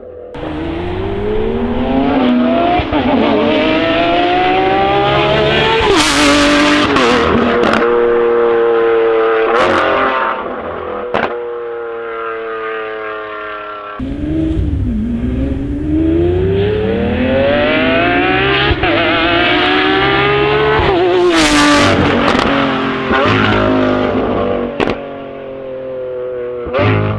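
Lamborghini V12 engine accelerating hard, its pitch climbing steeply to a sharp crack at the top of the rev, then easing slowly down. This happens twice, in two separate runs.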